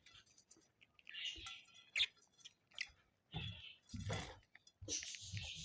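Pet budgerigars chattering in short scratchy chirps and warbles, with a longer scratchy stretch near the end and a few soft low thumps.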